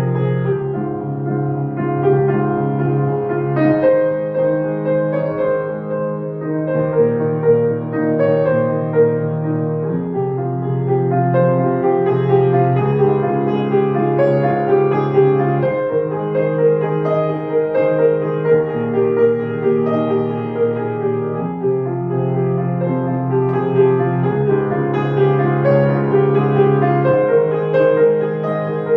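Piano music: a flowing passage of held notes and chords over a steady low bass line.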